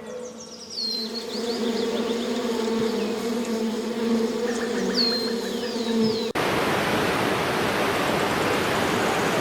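A bee buzzing steadily, with a few short, high, falling chirps behind it. About six seconds in, the buzz cuts off abruptly to an even rushing noise like water.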